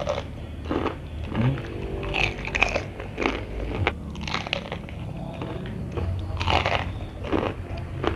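Crispy battered fried chicken being bitten and chewed: repeated irregular crunches of the fried coating.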